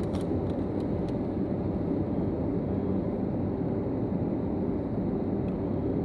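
Steady low rumble of a parked car with its engine idling, heard from inside the cabin. A few faint light clicks in the first second come from handling a pack of trading cards.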